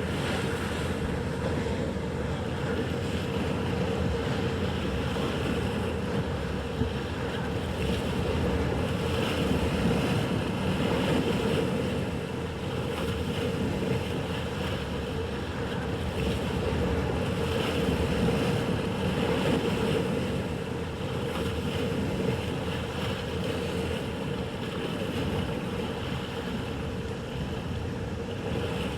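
Motorboat engine running over a steady hum, mixed with waves breaking and wind buffeting the microphone; the roar swells a few times.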